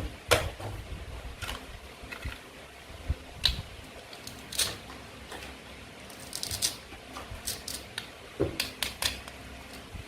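Toy knife and play-food pieces clicking and knocking as they are cut apart and set down: a dozen or so irregular sharp taps with short pauses between.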